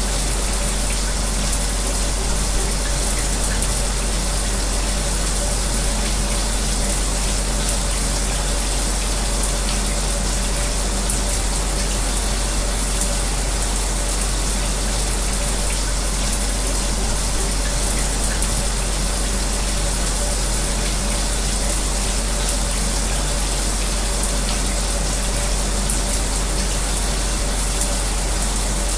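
Shower water running steadily, mixed with the constant hum of an electric fan, unchanging throughout.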